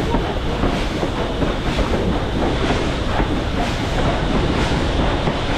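Western Maryland Scenic Railroad train running on the track: a steady rumble with regular clacks about twice a second.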